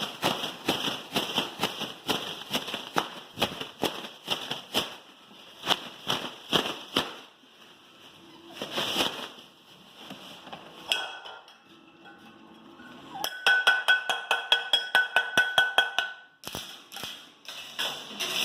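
Loud sharp bangs and clatters struck over and over, noises made deliberately to test how the puppies react. About two-thirds of the way through comes a fast rattle of strikes with a ringing metallic tone.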